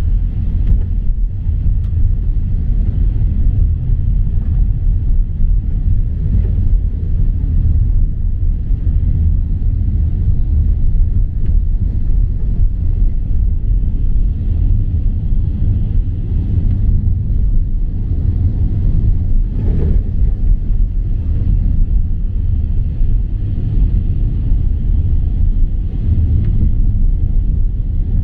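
Steady low rumble with a brief knock about twenty seconds in.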